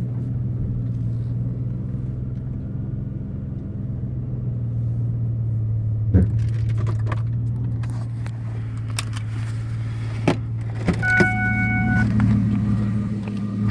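Car running with a steady low hum, with a few scattered clicks and knocks and one short electronic beep about eleven seconds in.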